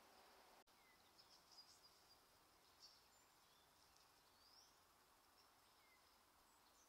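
Near silence: faint outdoor ambience with scattered faint, high bird chirps and a couple of short whistles. The sound drops out completely for an instant less than a second in.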